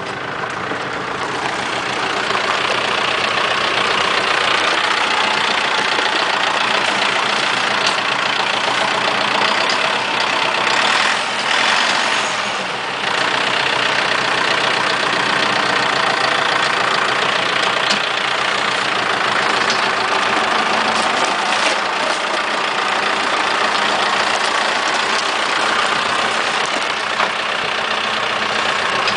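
Cronimo DF-404 small tractor's engine running steadily. It grows louder over the first two seconds and dips briefly about twelve seconds in.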